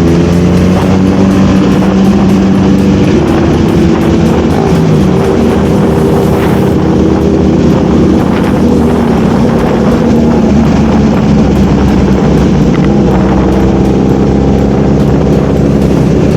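Motorcycle engine running on the move, its pitch rising and falling as it speeds up and slows down.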